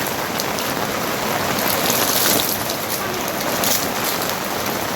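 Heavy rain falling steadily: a dense hiss of drops with scattered patters.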